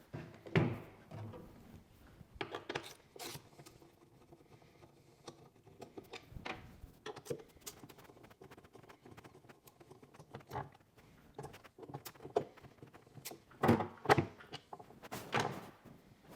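Scattered clicks, light knocks and metallic rattling of a Torx bit driver and loose bolts as two bolts are backed out of a tire carrier and set down, with the loudest knocks near the end.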